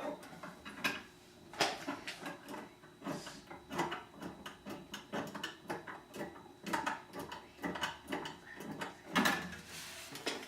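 Irregular light knocks, clicks and clatter of objects being handled, scattered unevenly through the stretch.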